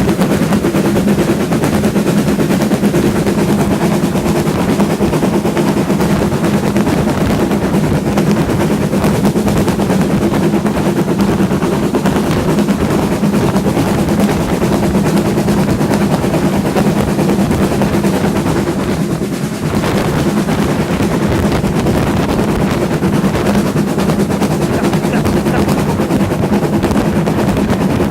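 Steam train hauled by LMS Ivatt tank engine 41312 running, heard from on board: a loud, steady rattle and rumble with rapid, even clatter that dips briefly about 19 seconds in.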